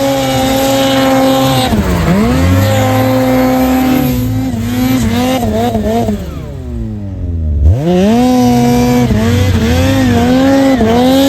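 Snowmobile engine revving in deep snow: the revs hold high, sag about two seconds in, climb back, waver, then fall away to a low note before surging back up and holding, as the sled is worked to get it unstuck.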